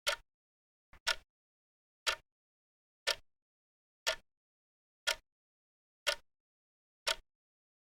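Countdown timer's ticking sound effect: one sharp clock-like tick each second, with dead silence between ticks.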